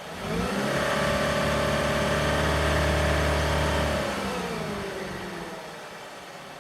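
2008 Chevrolet Cobalt's four-cylinder engine revved from idle, held up for about three seconds, then dropping back to idle, soon after its first start following a winter of sitting.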